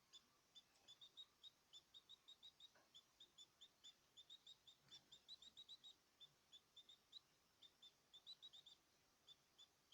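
Cage birds chirping faintly: a steady run of short, high chirps, about three or four a second, with brief gaps.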